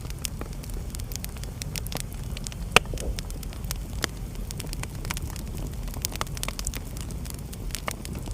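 Wood fire burning in a fireplace: a steady low rumble of flames with scattered sharp crackles and pops, one loud pop a little under three seconds in.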